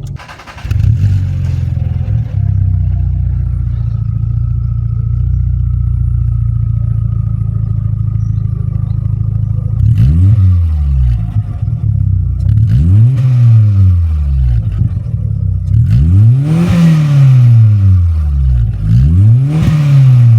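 SEAT Córdoba's exhaust, fitted with a second resonator to cut its drone, heard from below the car: the engine idles steadily, then is revved four times, each rev rising in pitch and falling back to idle.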